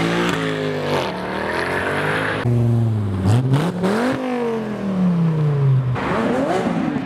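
A car engine accelerating hard. Its pitch climbs, drops sharply at a gear change about three seconds in, climbs again, then falls away steadily as the car goes past.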